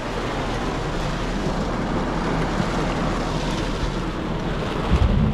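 Heavy rain pouring on a pickup truck, heard as a steady hiss from inside the closed cab, with a brief low rumble near the end.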